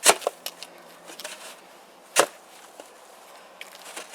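Shovel blade chopping at frozen snow and ice around a stuck lawn mower: two sharp hits about two seconds apart, with smaller clicks and scrapes between them.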